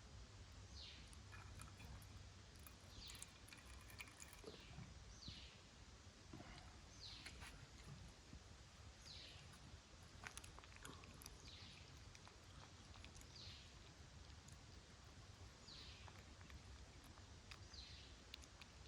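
Faint, short, high-pitched squeaks, each falling in pitch, repeated about once every two seconds from a small animal, over a low steady hum.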